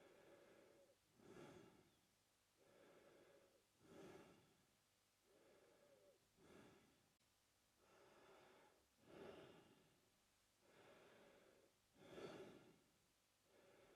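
A man breathing slowly and steadily through his mouth, faint and close. A softer, longer breath alternates with a louder, shorter one, about five full breaths in all.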